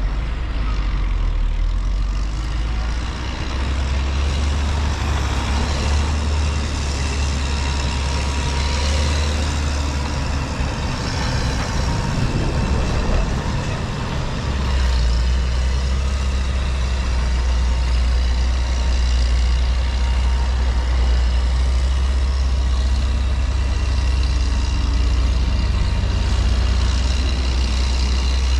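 Highway traffic with heavy trucks passing: a continuous loud, low rumble of engines and tyres that grows heavier about halfway through.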